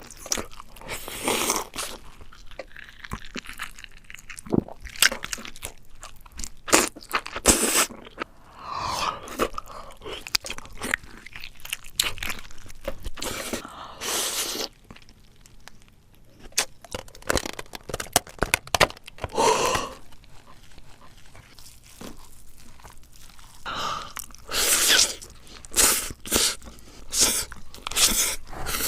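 Close-miked crunchy eating: a person biting and chewing crisp food in irregular bursts of loud crunches.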